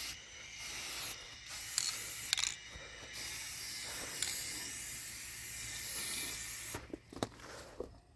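Aerosol spray paint can hissing in several bursts with short breaks, the longest run lasting about four seconds, then stopping with a few small clicks near the end.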